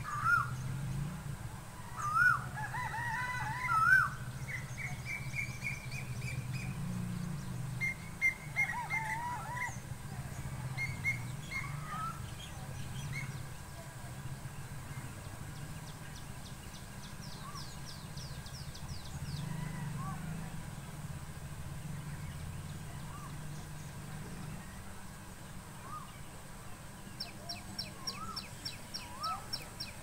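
Several songbirds chirping and calling, with loud whistled, gliding calls in the first few seconds and rapid high trills later on. A steady low hum runs underneath.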